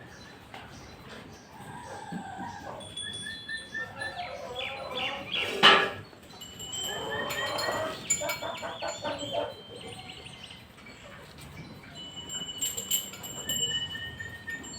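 Farmyard birds calling with many short high chirps and a run of repeated calls. A single sharp knock comes about six seconds in.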